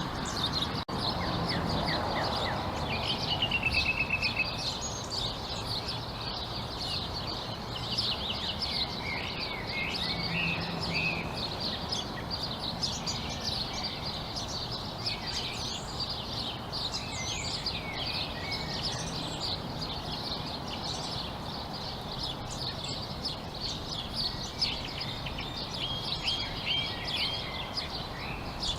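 Many birds chirping and calling at once in a dense, continuous chorus of short high chirps, with a quick trill about three seconds in, over a steady low background noise.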